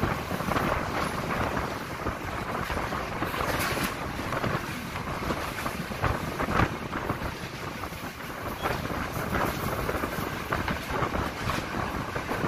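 Passenger train running along the track, with wind rushing over the microphone and a few knocks, the loudest about six and a half seconds in.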